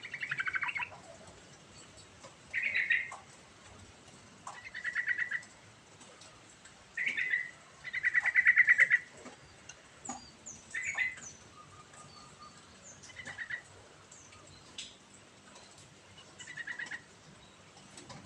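Yellow-vented bulbul (trucuk) singing: about eight short bubbly phrases of rapid notes, one every couple of seconds, the longest and loudest about halfway through.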